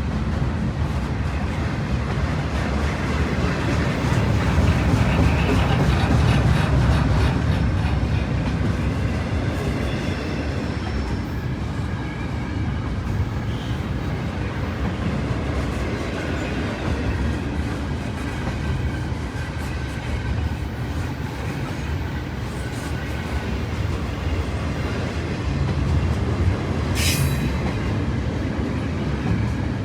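A train rolling past, a steady low rumble with the wheels clicking over the rail joints. A brief high-pitched hiss or squeal comes near the end.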